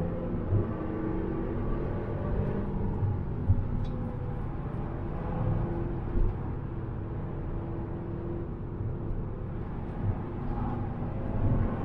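Volkswagen Golf GTI TCR's turbocharged 2.0-litre four-cylinder heard from inside the cabin, running at a steady pitch in fourth gear with tyre and road noise underneath. A few short bumps break in, at about three and a half, six and ten seconds.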